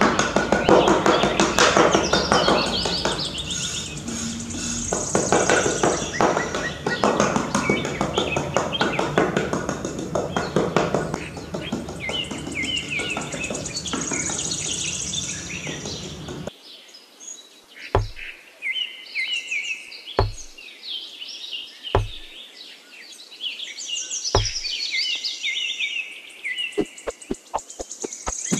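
A small metal trowel scraping and smoothing sand, with birds chirping over it. About halfway through the scraping stops abruptly. The chirping goes on, broken by four dull thunks about two seconds apart.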